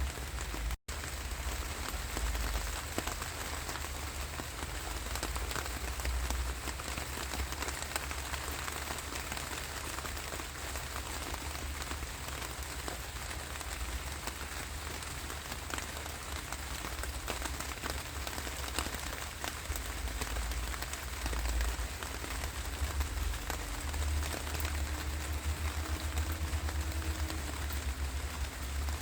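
Steady rain falling, a dense patter of drops over a low rumble, with a momentary gap in the sound just under a second in.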